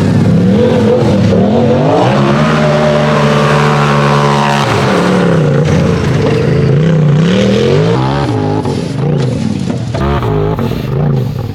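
UTV race buggy engine revved hard in repeated rises and falls as it climbs, held at high revs for a couple of seconds, then cut sharply about midway before surging up and down again.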